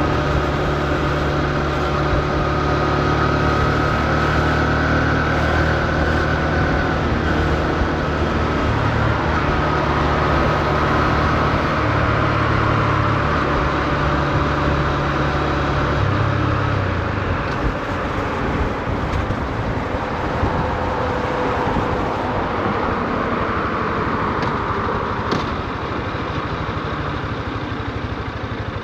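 Honda CB125F's 124 cc air-cooled single-cylinder engine running at a steady, even pitch. About seventeen seconds in, its note drops away and leaves a steady rushing noise.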